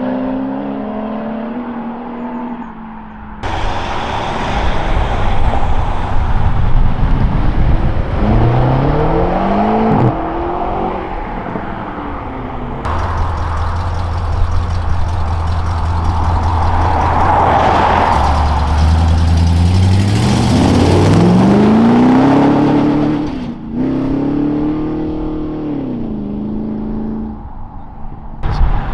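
Modified cars driving off one after another, with loud exhausts. Their engines rev and accelerate, each engine note climbing and then dropping back several times.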